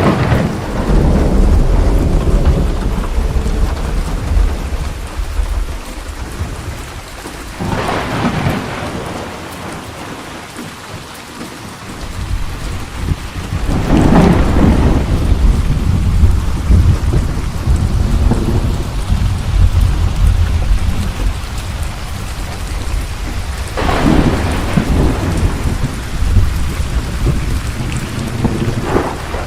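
Thunderstorm: steady heavy rain with rolling thunder, several sharp cracks about eight seconds apart each followed by a long deep rumble.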